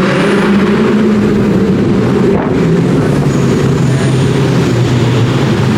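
Car engine and exhaust making a steady low drone, heard from inside the moving car, with the pitch shifting slightly as the car rolls along.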